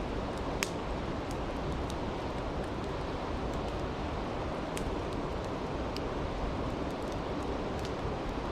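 A stream rushing steadily with a campfire crackling over it: scattered sharp pops, the loudest a little under a second in.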